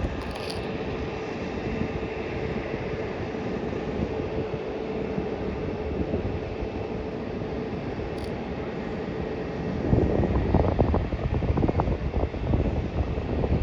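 Steady distant jet aircraft engine hum with a faint held whine, then from about ten seconds in, gusty wind buffeting the microphone.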